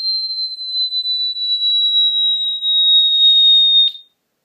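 A steady, high-pitched electronic tone, drifting slightly lower in pitch, that cuts off with a click near the end.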